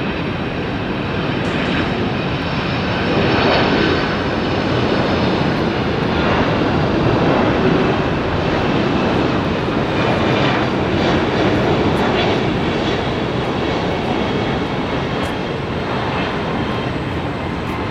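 Jet airliner engines: a steady rush with a high fan whine on top, swelling a few seconds in and then easing slightly.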